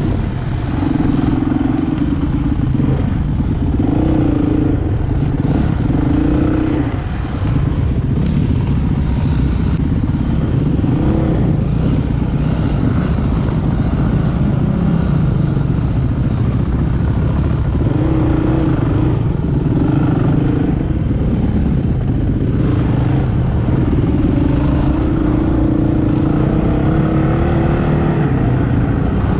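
Off-road motorcycle engine running under load, its note coming and going as the throttle is opened and closed, over a steady low rumble.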